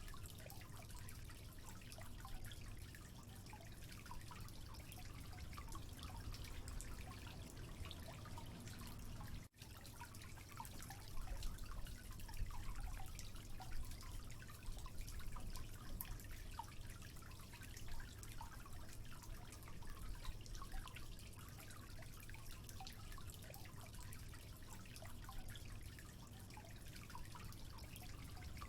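Water dripping and trickling, a dense patter of small drops over a steady wash. It cuts out for an instant about nine and a half seconds in, then resumes a little louder.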